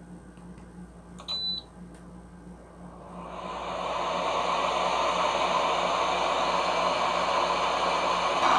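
A short electronic beep, then an air conditioner starting up: a steady rushing hiss of its fan swells in about three seconds in and keeps running, the sign that the unit is working again.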